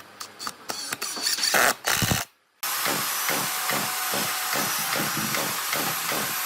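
Woodworking tools: a run of clicks and knocks, then a sudden cut, then a power tool running steadily with a regular pulsing of about four beats a second.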